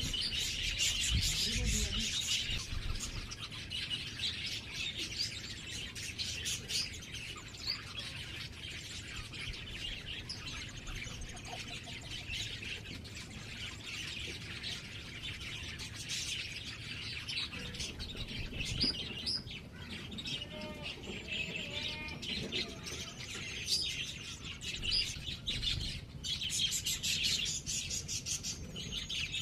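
Small birds chirping continuously in rapid, overlapping high chirps, with a few low bumps in the first couple of seconds.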